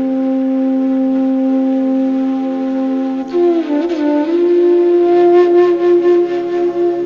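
Slow instrumental music led by a flute-like wind instrument holding one long low note, then bending up a little after three seconds into another long held note.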